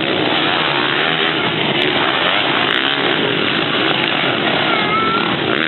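Motocross dirt bike engines revving hard, the pitch rising and falling as the riders work the throttle.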